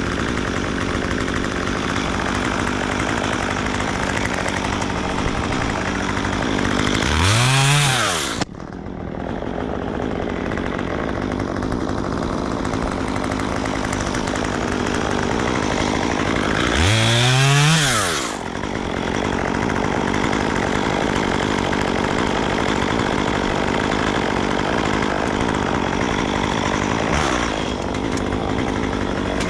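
Gas chainsaw running, revved up hard twice, about seven seconds in and again about seventeen seconds in, its pitch rising and then dropping back.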